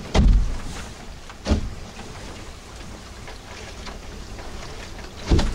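Wind noise and water rushing aboard a small sailboat under way, with three dull thumps: one right at the start, one about a second and a half in, and one near the end.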